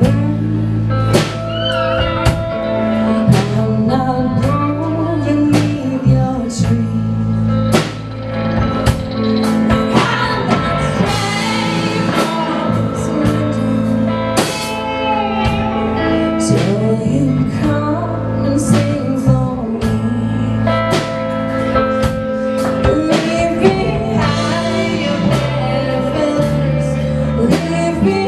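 A live rock band playing: drum kit, bass, guitars and keys, with a melody line sliding in pitch above them.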